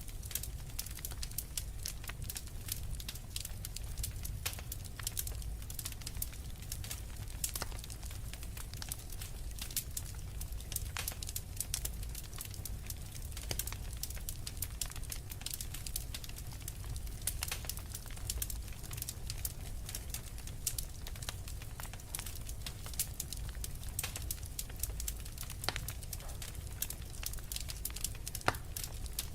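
Wood fire of burning logs crackling steadily, with frequent sharp irregular pops and snaps over a low rumble of the flames.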